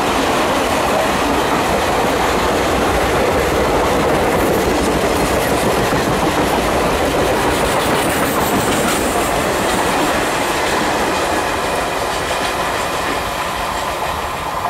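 A passenger train running past close by, its wheels clattering over the rail joints in a steady rush that eases off over the last few seconds.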